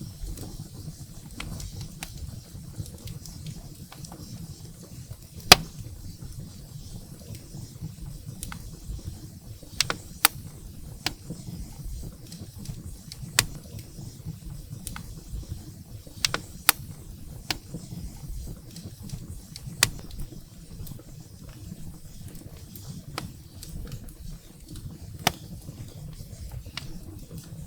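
Wood fire burning in a fireplace: a steady low rumble of flames with irregular sharp crackles and pops from the burning firewood, the loudest pop about five seconds in.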